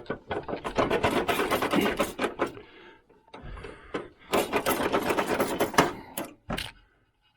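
Hand-tool work on a riding mower: two spells of rapid metallic clicking and scraping, separated by a short pause, with a single click near the end.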